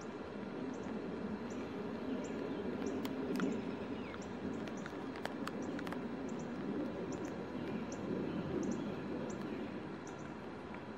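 Outdoor ambience of a steady low rumble, with short high bird chirps repeating at irregular intervals and a few sharp clicks around the middle.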